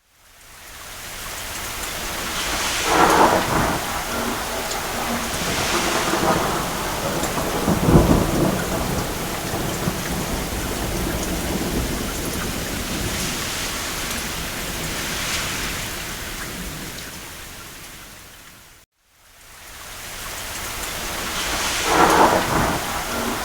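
Steady rain with rolls of thunder rising out of it a few seconds apart; the deepest roll comes about eight seconds in. The whole sound fades out to silence a little before the end and fades back in, as at a loop seam.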